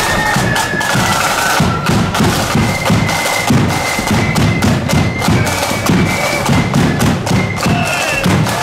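A marching flute band playing: flutes carry a melody over snare drums and a bass drum beating a steady march rhythm.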